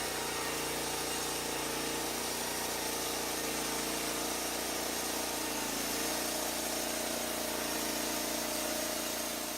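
Portable sawmill's engine running steadily at idle, a constant hum of several steady tones.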